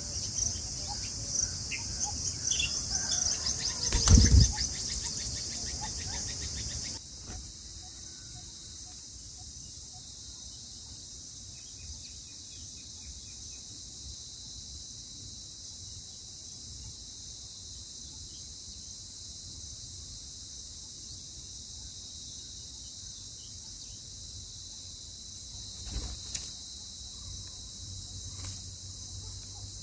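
Steady high-pitched insect chorus, like crickets, with a few short bird chirps in the first seconds. A loud brief thump about four seconds in; the chorus drops in level about seven seconds in, and two fainter knocks come near the end.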